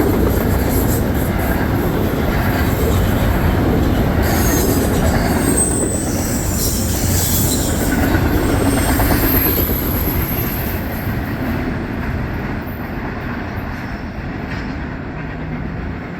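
Freight cars of an intermodal train rolling past on the rails with a steady rumble, wheels squealing in high thin tones in the middle. The sound eases off somewhat near the end.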